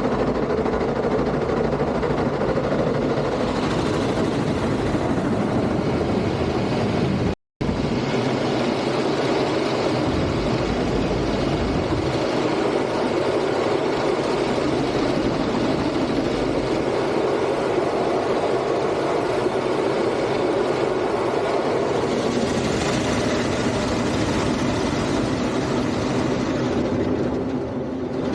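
Automatic car wash machinery running through its cycle: a steady, dense rush of noise, cut off for a split second about seven seconds in.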